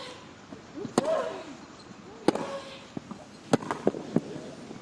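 Tennis rally: tennis balls struck by rackets roughly every second and a bit, a short grunt from a player with a shot about a second in, then a quicker run of hits and bounces near the end as the point is finished.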